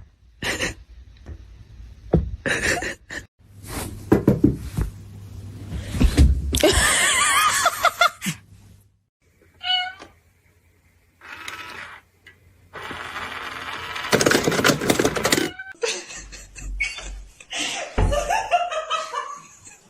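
Domestic cats meowing: several separate calls, some with a wavering pitch, with knocks and bumps between them.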